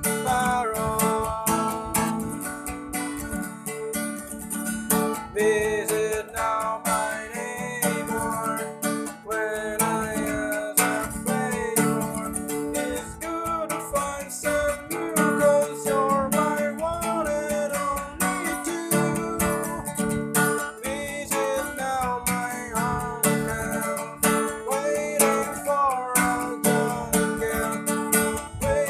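A rock band's song with strummed acoustic guitar under a bending melody line.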